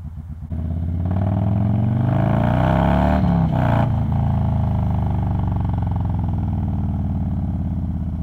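Harley-Davidson Low Rider S V-twin idling with a lumpy pulse, its rear cylinder dropped out by the idle temperature management system. About half a second in, both cylinders fire and it pulls away, revs rising, shifts up around three seconds in, then runs steadily under way.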